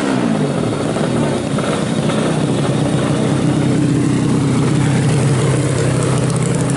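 150cc drag bike engine with its revs falling away just after the start, then running steadily at idle.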